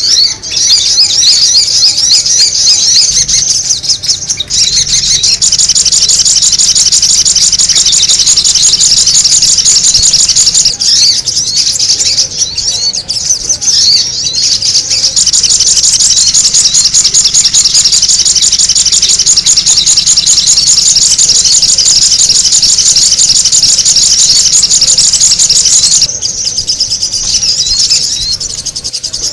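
Sogon bird calls played as a bird lure: a loud, dense, rapid high-pitched chattering that runs almost without pause, dipping briefly a few times and easing off for a couple of seconds near the end.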